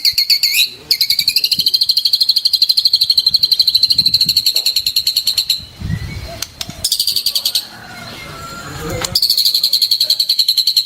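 Songbird song from a tutor recording for white-rumped shamas: long, rapid, high-pitched pulsing trills repeated with short breaks, with softer, lower chatter in the gaps.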